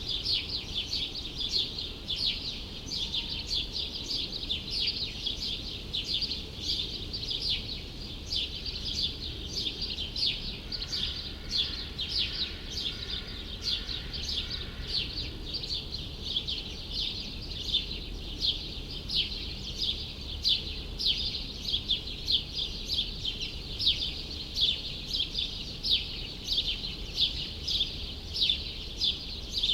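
Small birds chirping continuously in a quick, repeating stream of short high notes, over a steady low city hum.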